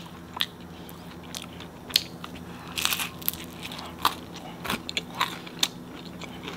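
Close-miked chewing of homemade pizza: crisp crunches and crackles roughly every half second to second, with a denser crackling patch about three seconds in.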